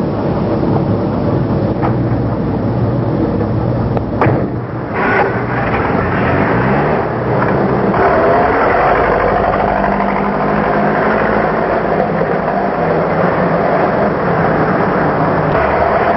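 Tractor-trailer truck engine running and pulling away, its pitch rising as it picks up speed. There is a short click about four seconds in.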